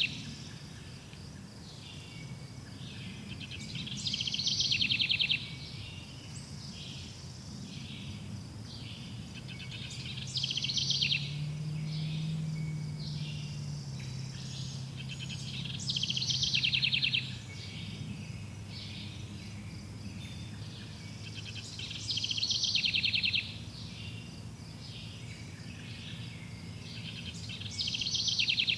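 Forest ambience of birds and insects: a loud high trill lasting about a second comes back roughly every six seconds, with smaller chirps between and a low steady hum underneath.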